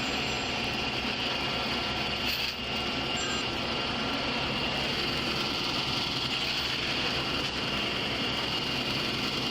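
A motor vehicle engine running steadily, a low rumble with a constant high-pitched whine over it.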